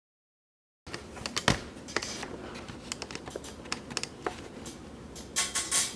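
A quick, irregular run of light clicks and taps, starting about a second in after a moment of dead silence.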